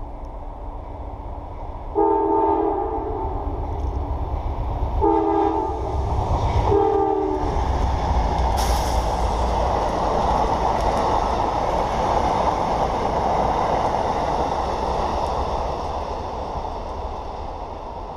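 Passenger train sounding its horn three times as it approaches, one long blast then two short ones. It then passes at speed with a loud rush of wheel and rail noise that fades as it goes by.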